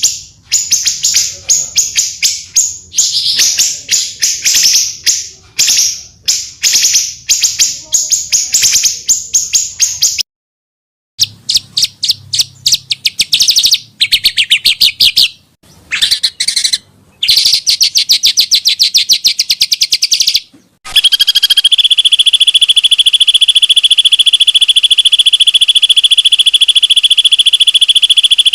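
Recorded songs of small songbirds: fast, rough bursts of high chirping, spliced together with abrupt cuts and short silences between clips. About 21 seconds in, a steady, unbroken high trill takes over.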